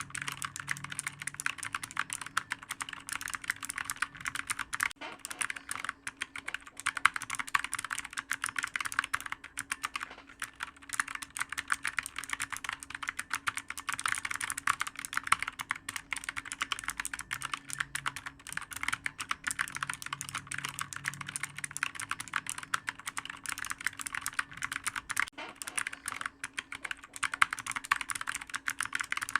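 Fast, continuous typing on a clicky computer keyboard: many keystrokes a second, with a few short pauses.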